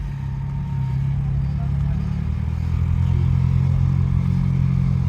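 A car engine running at low, steady revs, growing a little louder partway through.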